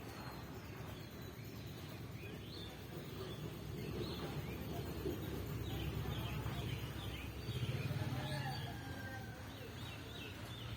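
Birds chirping in a run of short, quick calls over a steady low rumble.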